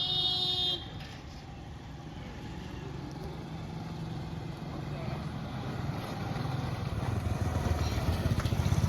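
An electric warning buzzer at the level crossing sounds and cuts off suddenly less than a second in. A steady low engine rumble follows, slowly growing louder.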